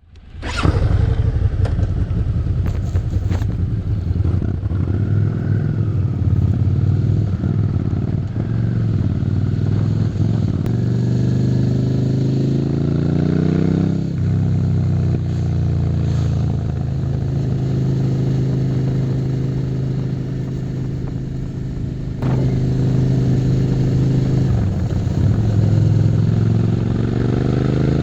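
Suzuki SV650's 645 cc V-twin engine under way, coming in about half a second in. Its pitch climbs steadily, then drops sharply about halfway through at a gear change. It holds level for a while, dips twice, and climbs again under acceleration near the end.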